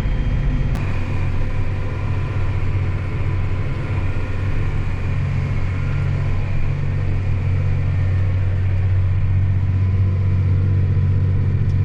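Steady low engine and road drone of a vehicle being driven, with a brief click about a second in.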